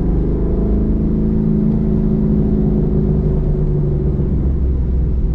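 Roush Mustang engine and exhaust heard from inside the cabin while driving: the note drops in pitch at the very start, as at a gear change, then holds at a fairly steady drone.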